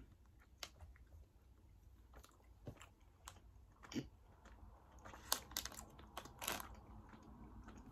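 A person chewing soft gummy candy, faint and irregular, with a few small wet clicks and smacks.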